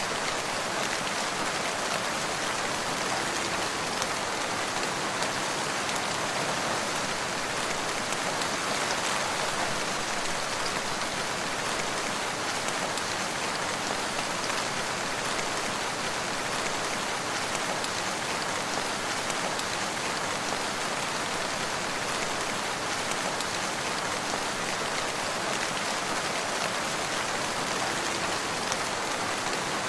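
Steady rain falling and pattering on surfaces, with many fine drop impacts in a dense, even hiss.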